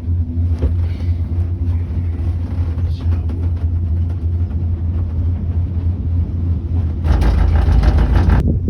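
Skyrail gondola cabin running along its cable: a steady low hum, then about seven seconds in a louder rumble for about a second and a half that stops abruptly.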